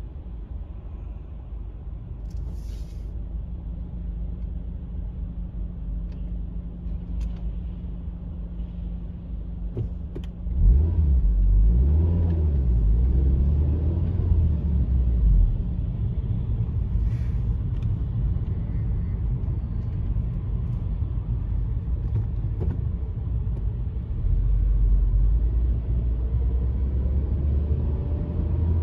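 Honda Civic Type R FN2's 2.0-litre four-cylinder VTEC engine heard from inside the cabin. A low steady hum while creeping in traffic, then about ten seconds in the engine gets louder as the car pulls away. It settles into a steady drone of engine and road noise, rising again near the end.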